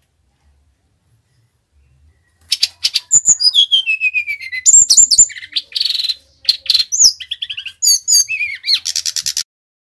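Sikatan rimba dada coklat, a jungle flycatcher, singing a loud, fast, varied song of high whistles, down-sliding notes and short trills. The song starts a couple of seconds in and breaks off shortly before the end.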